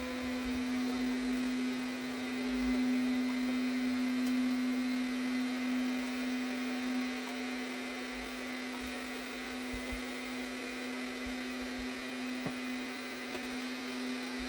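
Arnagar S8 robot vacuum cleaner running a cleanup in mopping mode: a steady motor hum on one pitch over a constant rushing noise, with a small click about twelve seconds in.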